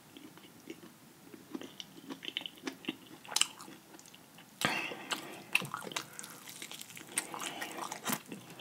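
A person chewing fried chicken close to the microphone: wet mouth sounds and small clicks, with a sharper crackle a little past halfway through.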